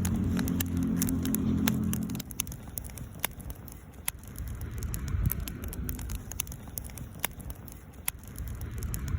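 Wood campfire crackling, with sharp irregular pops and snaps of burning wood. A low droning hum sits under it for the first two seconds and returns at the very end.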